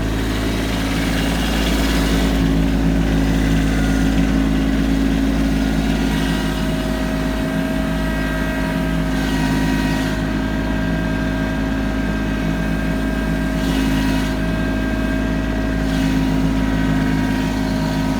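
Kubota B2650 compact tractor's three-cylinder diesel engine running steadily, with a higher whine from about six seconds in.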